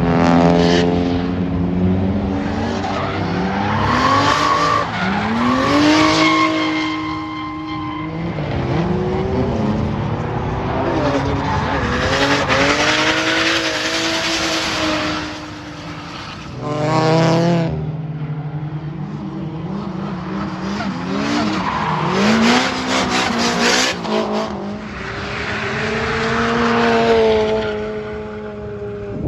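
Drift cars' engines revving hard, pitch climbing and dropping again and again as the drivers work the throttle, with tyres squealing through the slides.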